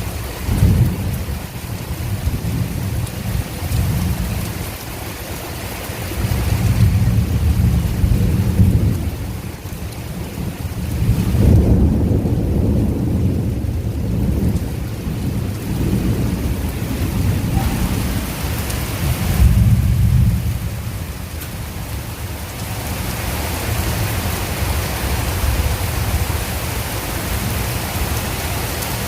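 Heavy rain pouring steadily, with thunder rumbling low and swelling several times, loudest about a third of the way in and again about two-thirds of the way in.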